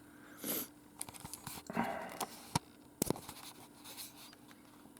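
Handling noise: scattered small clicks and short rustles, with the sharpest click about three seconds in, over a faint steady hum.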